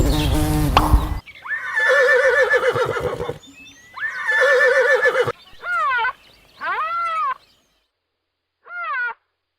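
A steady buzz cuts off about a second in, then a horse whinnies twice, each a long quavering call. Three shorter calls follow that rise and fall in pitch.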